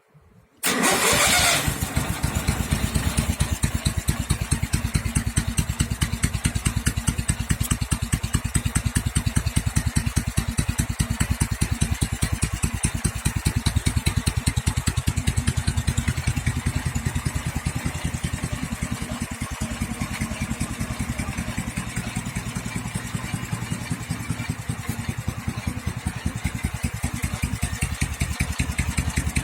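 1954 Soviet M-72 motorcycle's side-valve flat-twin engine starting with a sudden burst about half a second in, then idling with an even, rapid beat.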